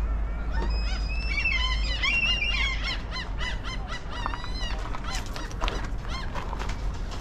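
Birds calling again and again: a dense flurry of overlapping honking calls about a second or two in, then short calls on and off.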